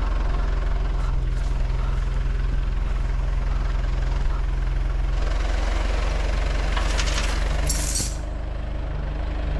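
Backhoe's diesel engine running steadily as it works its hydraulics to lower a load, growing fuller about five seconds in, with a short hiss near eight seconds in.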